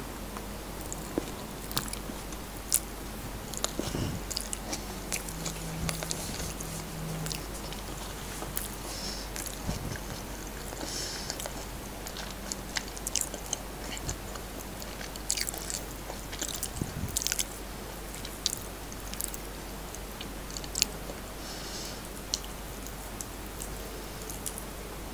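Close-miked chewing and mouth sounds of someone eating fried rice, corned beef and salted egg by hand, with many short wet clicks and smacks.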